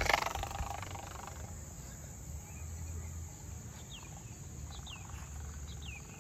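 Open-air ambience with a steady low background and a few short, falling bird chirps in the second half. A brief burst of noise comes at the very start.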